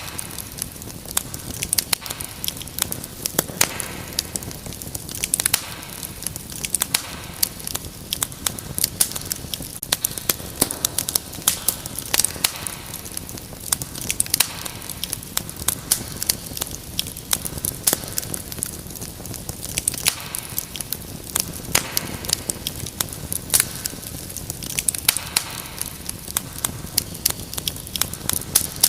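Wood fire crackling and popping, with irregular sharp snaps over a steady hiss.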